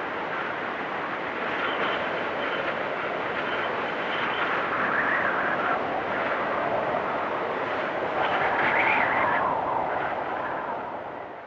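Blizzard wind rushing steadily in gusts. It swells about five seconds in and again near nine seconds, then fades near the end.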